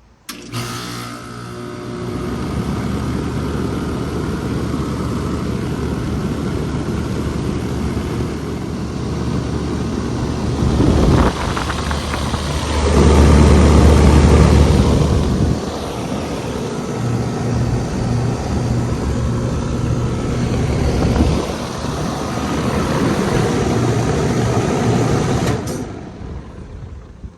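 A 2001 Rheem Classic 10 SEER central air conditioner's outdoor unit starting up: the compressor kicks on suddenly, then hums steadily with the condenser fan blowing. It gets louder for a few seconds about halfway through, and the level drops off near the end.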